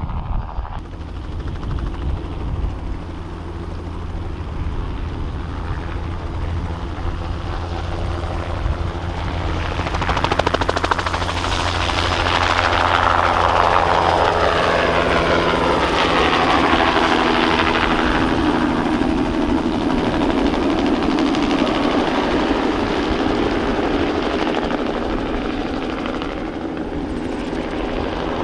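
Bell 206B-3 JetRanger III helicopter with its single Allison 250 turboshaft and two-blade rotor, flying a low spraying pass. It grows louder about ten seconds in, is loudest in the middle and eases off near the end, its pitch falling as it goes by.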